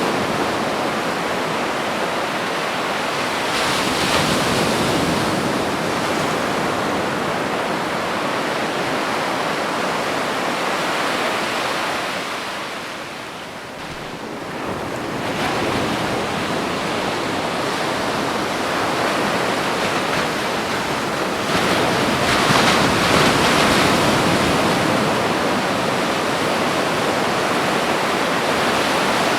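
Ocean waves breaking on a beach: a continuous wash of surf that swells and ebbs, with a lull about halfway through and a bigger wave breaking a few seconds later.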